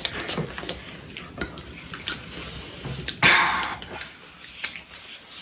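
Close-up eating sounds: chewing and crunching with small clicks and smacks, and a louder rushing noise lasting under a second about three seconds in.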